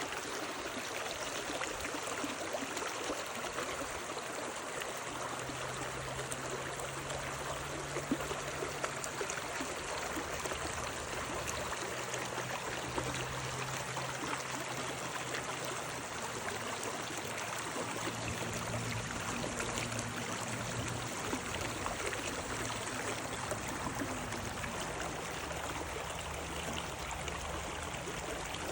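A stream flowing steadily, with an even rush and trickle of water.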